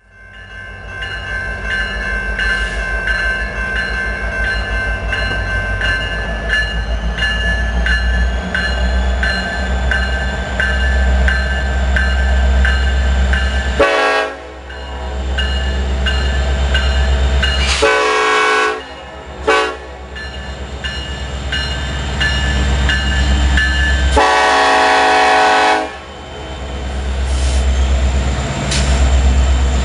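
Passing diesel-hauled train: a steady heavy rumble with a regular click about every two-thirds of a second as the wheels run over the rail. The locomotive's air horn sounds several blasts over it: two shorter ones, a brief one and a long one, in the pattern of a grade-crossing signal.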